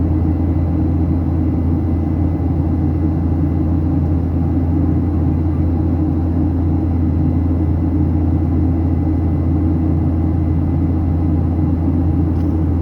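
Steady engine and airflow rumble inside the cabin of a Boeing 737-800 with CFM56-7B turbofans, a deep even drone with no change in pitch or level.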